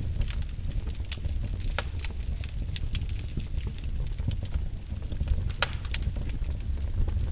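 Logs burning in a fireplace: a steady low rumble of flame with irregular sharp crackles and pops, two louder snaps about two seconds and five and a half seconds in.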